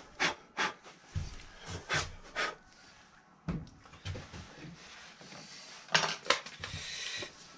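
Work on a sand casting mold: scraping and brushing sounds with a series of dull knocks from handling the mold and flask, the heaviest at about one, three and a half and six seconds in.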